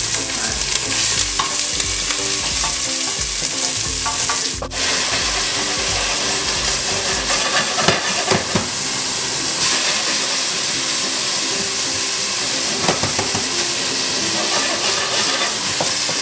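Garlic, onion and chunks of boiled beef sautéing in hot oil in a stainless steel pot, sizzling steadily while being stirred, with occasional clicks of the utensil against the pot.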